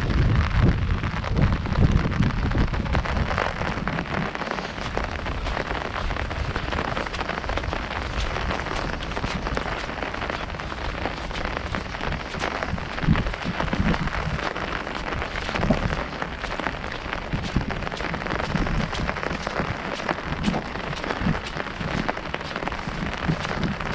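Heavy rain falling on an umbrella held overhead: a dense, steady hiss of countless small drop ticks, with some low rumbling in the first couple of seconds.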